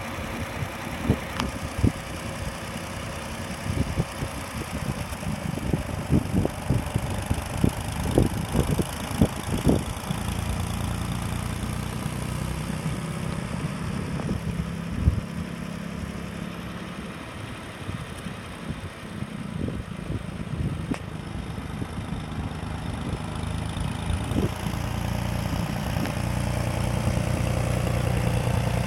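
Ford 2110 LCG tractor engine running, with a string of sharp knocks and clicks in the first ten seconds, then settling into a steady low running note that grows louder near the end.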